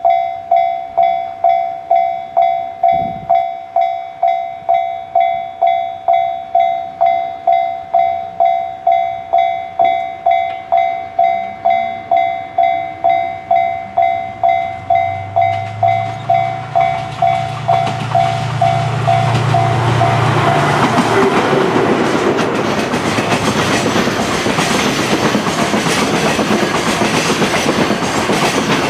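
A level-crossing warning bell dings steadily about twice a second. Past the halfway mark a DF200 diesel locomotive's engine rises in. Then the container freight train passes with a loud rush and clickety-clack of wheels on the rail joints, which drowns out the bell.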